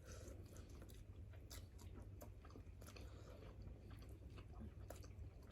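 Faint chewing, with scattered small clicks, as a person eats fish.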